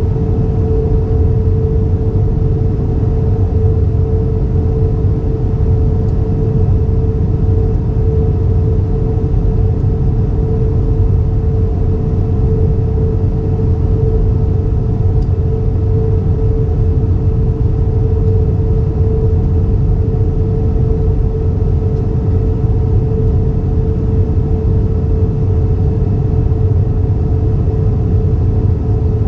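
Airbus A320 cabin noise in flight: the steady drone of engines and airflow, a deep rumble with one hum held at a constant pitch.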